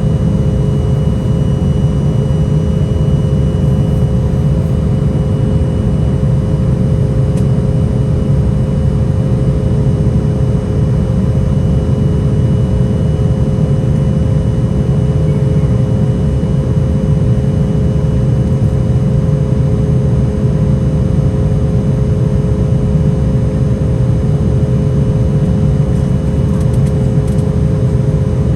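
Embraer E175 cabin noise from inside the jet: its two wing-mounted GE CF34-8E turbofans and the airflow making a steady deep rumble, with a constant engine whine of several fixed tones over it.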